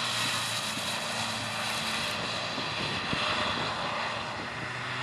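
Rally car engine running at speed under a dense, steady rush of road and wind noise.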